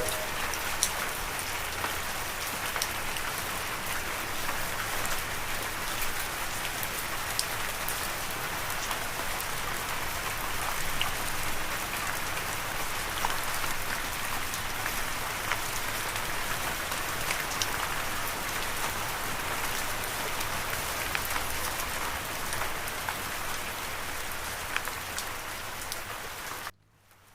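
Steady rain falling, with individual drops ticking sharply through the patter. It cuts off abruptly near the end.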